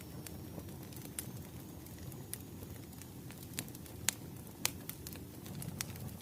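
Bonfire crackling: a steady low rumble of flames with irregular sharp pops, two louder ones a little past the middle.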